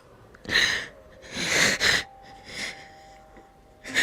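A person crying: about four breathy, gasping sobs in a row, the loudest about a second and a half in.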